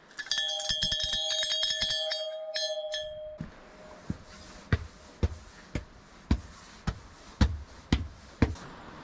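A metal bell rung rapidly over and over for about three seconds, its ringing dying away. Then a run of heavy footsteps thudding about twice a second.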